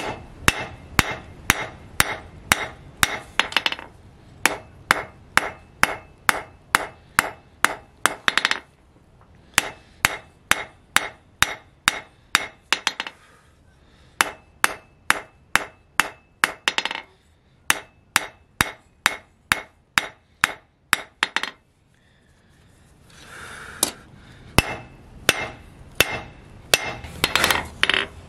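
Hand hammer striking hot spring steel on an anvil, in runs of quick blows at about two to three a second, each with a short metallic ring, broken by brief pauses.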